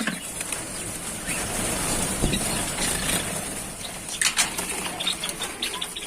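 Small caged birds chirping faintly in short, high calls over a rustling, handling-noise background, with a brief cluster of sharp clicks about four seconds in.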